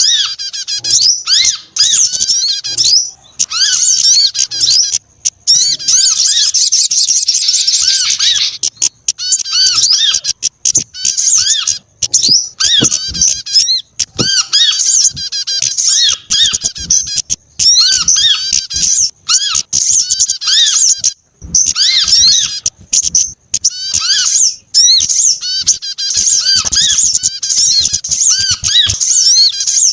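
Dense, continuous chorus of high-pitched small songbird chirps and trills, a bird-trapping lure track mixing the calls of several small species, including prinias. Quick repeated notes with brief pauses, layered over one another.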